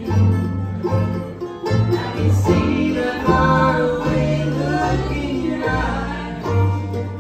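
Bluegrass band playing live, with plucked strings over a bass line that steps from note to note about twice a second.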